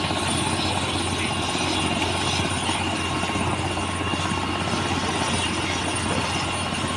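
Helicopter running steadily, a dense rotor and engine noise with a steady high whine over it.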